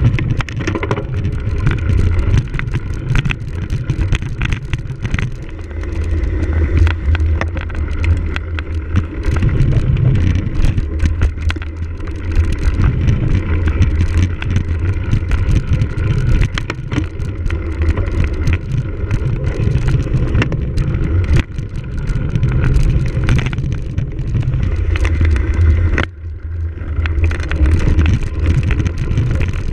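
Wind rumbling on the microphone of a camera riding on a cyclocross bike at race speed over rough ground, with frequent rattles and clicks from the bike. The rumble drops out briefly about 26 seconds in.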